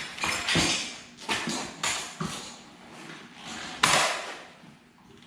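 Clattering and scraping of dirt bike parts being handled while a wheel is fitted, a series of irregular rustles and knocks with one sharp knock about four seconds in.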